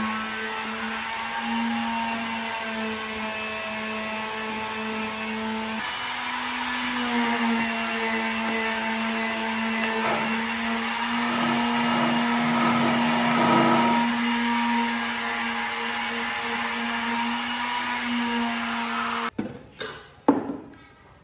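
Electric power tool motor running at a steady high speed with a whine and a hiss. It cuts off abruptly near the end, followed by a few knocks.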